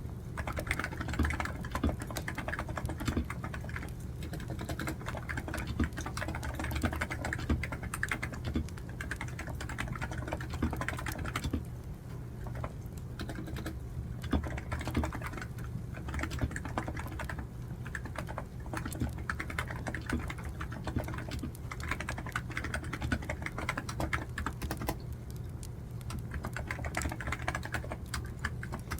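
Computer keyboard typing in runs of fast keystrokes, pausing briefly every few seconds, over a steady low hum.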